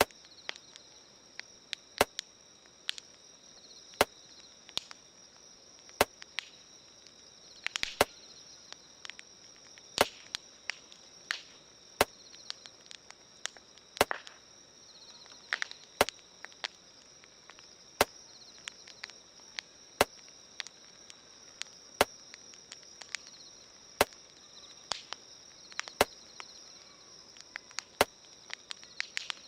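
Campfire crackling and popping irregularly, over a steady high chirring of crickets or other night insects. A sharp click also repeats evenly every two seconds.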